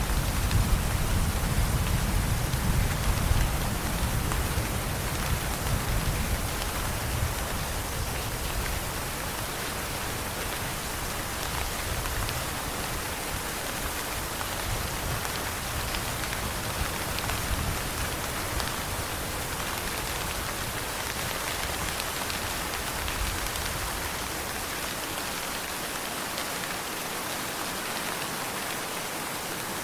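Steady heavy rain hissing evenly. A low rumble of distant thunder dies away over the first eight seconds or so.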